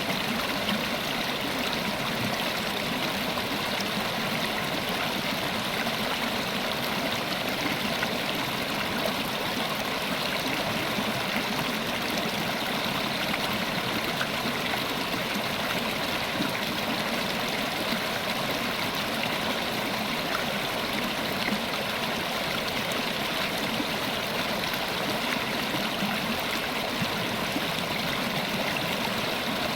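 River water running over stones in a steady, even rush, with a bright splashing hiss.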